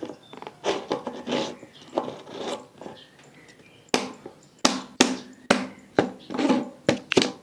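A quick series of sharp plastic clicks and knocks, about ten in three seconds in the second half, as a squishy container and its snap-on lid are handled and closed. Softer rustling and handling come before them.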